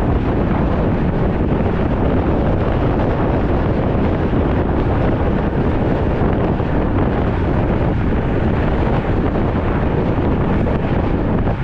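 Steady, loud wind rushing over the microphone of a camera riding along on a road bicycle.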